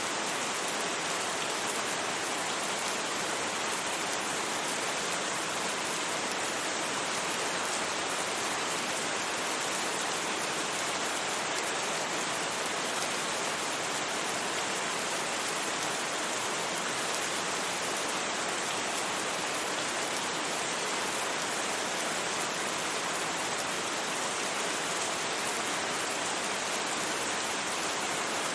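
Steady rain falling on a surface, an even hiss with no thunder and no change in level.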